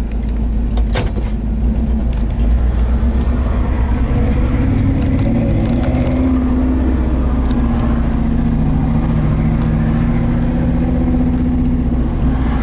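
1968 Ford F250's 360 V8 running under way through its newer exhaust, heard from the cab as a steady low drone. It grows louder about two seconds in as the truck picks up.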